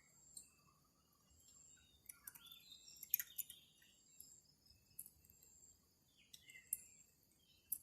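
Faint open-air ambience: scattered short bird chirps and sharp high ticks over a steady, high-pitched insect drone.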